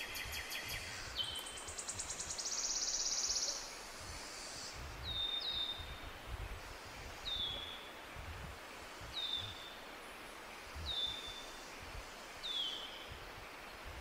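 A bird calling: a short high note sliding downward, repeated about every two seconds, after a rapid, buzzy high trill in the first few seconds. A low, uneven rumble sits underneath.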